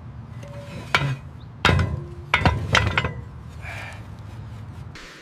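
Metal storm drain grate clanking as it is worked and lifted: about five sharp metallic knocks, some with a brief ring, over a low rumble.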